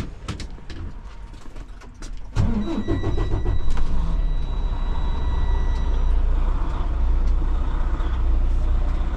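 A few clicks, then about two seconds in a 2016 semi truck's Detroit DD15 diesel engine cranks, catches with a short rise in pitch and settles into a steady idle. A steady high warning tone from the dash comes on with the start, the truck's low-air warning.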